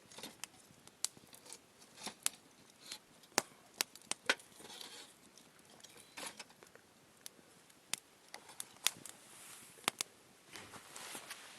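Wood campfire crackling, with sharp irregular snaps and pops over a faint hiss.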